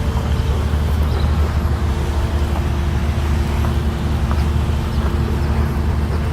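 Steady low rumble of motor-vehicle noise with a constant hum, unbroken and without pauses.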